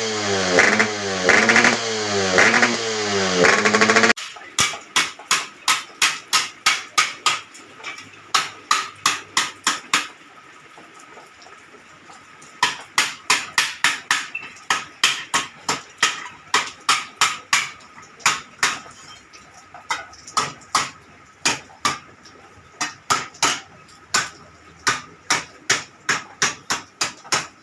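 Repeated hammer blows, about two a second in long runs, with a lull of a couple of seconds partway through. It opens with a loud pitched sound rising and falling quickly in pitch, which cuts off suddenly about four seconds in.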